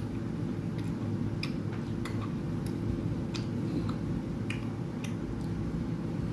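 A person eating rice and curry: irregular small wet clicks of chewing and mouth sounds, roughly one or two a second, over a steady low hum.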